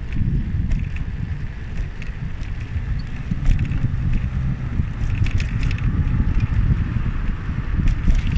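Wind rumbling on the microphone of a moving bicycle, with scattered light clicks and rattles.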